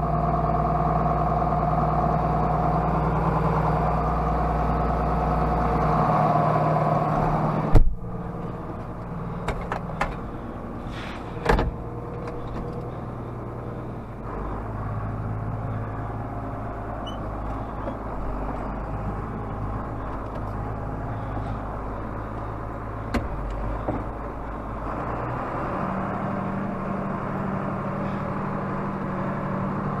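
John Deere tractor's six-cylinder diesel engine running steadily. About eight seconds in comes a sharp clunk, after which the engine sounds quieter with less low rumble. There are a few lighter clicks, and the engine's tone shifts twice later on.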